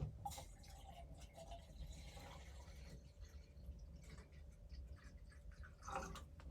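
Faint small clicks and handling sounds over a steady low rumble, with a brief louder rustle about six seconds in.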